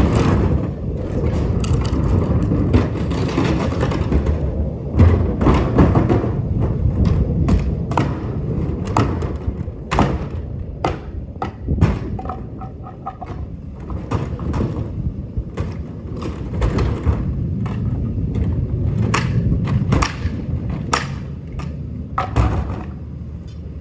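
Wheeled plastic trash cart being rolled over pavement: its wheels rumble steadily, with many irregular knocks and thuds as it bumps along.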